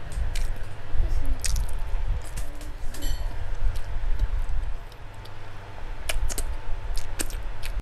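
Close-miked chewing of fatty pork and rice eaten by hand, with many short wet clicks and smacks of the lips and mouth over a low rumble.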